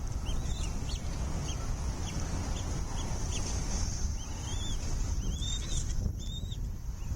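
Bald eagle calling: a run of short, thin, high chirps about twice a second, then three longer slurred, arching calls. Low wind rumble on the microphone underneath.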